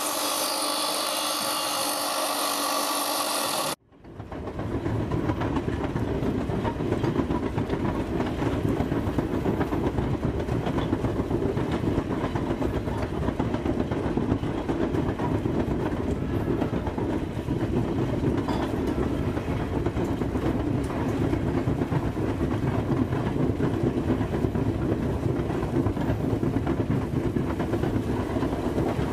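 A steady machine hum with several pitches cuts off about four seconds in. It is followed by the steady rumble and rail clatter of a train rolling on track.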